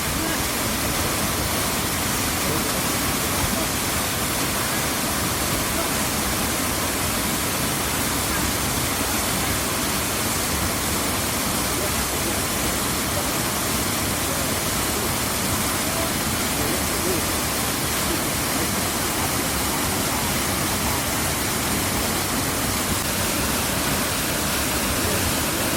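Waterfall rushing: a steady, unbroken rush of falling water.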